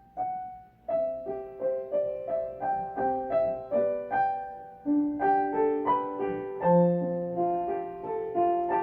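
Intro music: a gentle piano melody of single struck notes over soft chords, a few notes a second.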